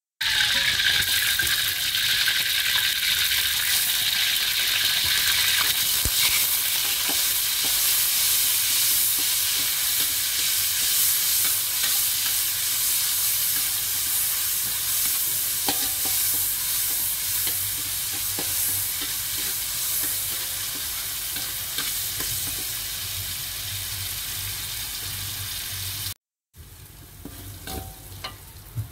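Food frying in hot oil in an aluminium wok, a loud steady sizzle stirred with a metal spatula, strongest at first and easing slowly. Near the end it stops, followed by a few quieter clinks.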